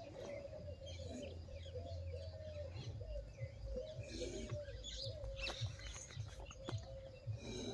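Faint birds chirping and calling, over a steady, wavering tone in the background, with a few small clicks after the middle.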